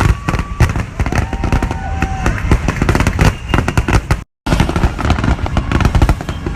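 Fireworks and firecrackers going off in rapid, dense crackling pops, with a couple of thin whistling tones in the first two seconds. The sound cuts out completely for a moment about four seconds in.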